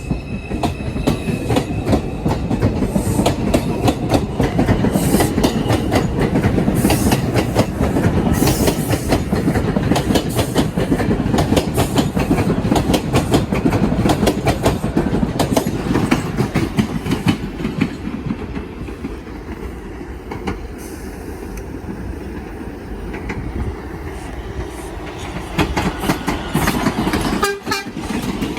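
New York subway 4 train pulling out of the station: a steady rumble of wheels on rail with rapid clicking over the rail joints, easing off after about twenty seconds.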